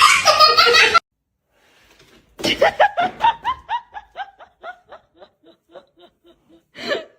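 A loud sound cuts off suddenly about a second in. After a short pause comes a person's laughter: a run of quick, pitched 'ha' pulses, about four a second, that fade out over several seconds, followed by one short burst near the end.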